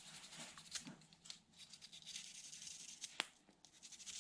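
Faint rustling and light clicking of small parts being handled, with one sharper click about three seconds in.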